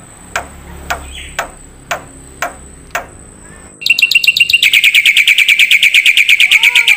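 Songbird calling: sharp clicking notes about twice a second, then about four seconds in a loud, very fast, even trill.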